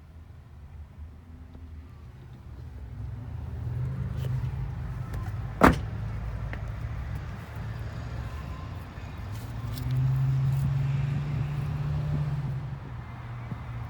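Pickup truck engine running steadily, swelling louder for a couple of seconds near the end. A single sharp click cuts through about halfway.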